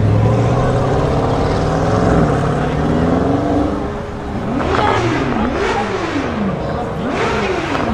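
Brabus 900 Rocket Edition G63's twin-turbo V8 running with its pitch settling lower, then revved three times in quick succession, each blip rising sharply and falling back.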